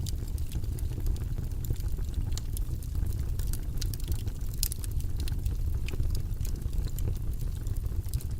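Steady low, rumbling study-background noise track, with light sharp clicks scattered irregularly over it.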